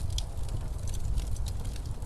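Fireplace crackling, with scattered sharp pops, over a steady low rumble of blizzard wind.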